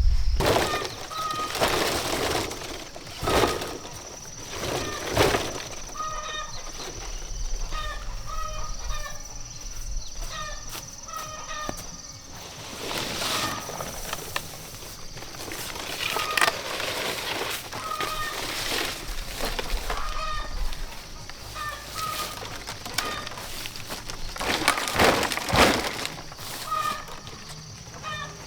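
Birds calling in short repeated notes, several a second in clusters, over scuffing and rustling noises, the loudest of them about a second in and around 25 seconds in, with a faint steady high whine behind.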